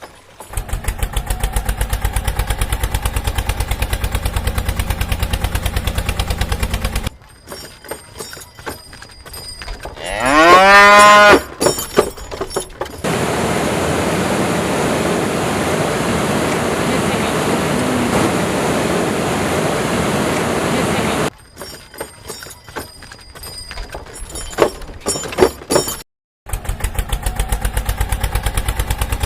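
Cattle mooing: one loud call that rises and then falls in pitch, about ten seconds in. Around it are a rapid, even, engine-like pulsing near the start and again near the end, a long steady hiss in the middle, and scattered clicks.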